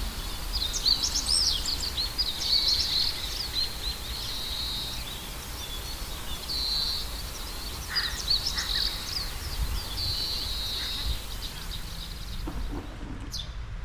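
Songbirds singing: many short high chirps, whistles and trills, over a low steady rumble. The song stops shortly before the end.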